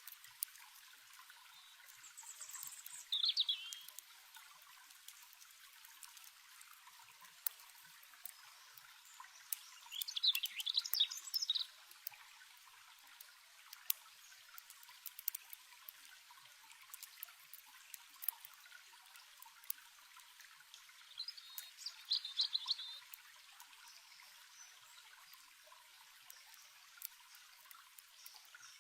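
Stream water trickling steadily, with a bird singing three short phrases about ten seconds apart, and scattered sharp crackles from a campfire.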